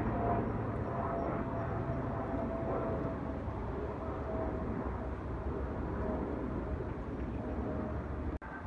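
Aircraft engine noise: a steady low rumble with a thin whine held near one pitch. It cuts off abruptly near the end, and a different steady drone with a higher tone follows.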